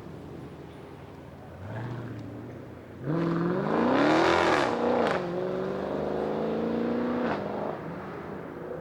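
A car accelerating hard away from a standstill. The engine note jumps up about three seconds in and climbs steeply, drops back at a gear change around five seconds, then climbs more slowly before falling away near the end.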